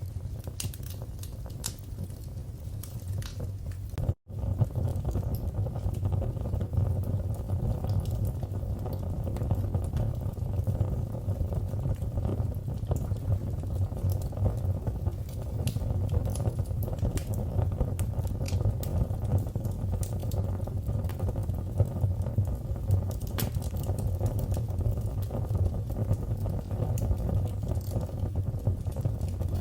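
Wood fire in a fireplace crackling, with frequent sharp pops and snaps over a low steady rumble of the flames. It cuts out for an instant about four seconds in and comes back a little louder.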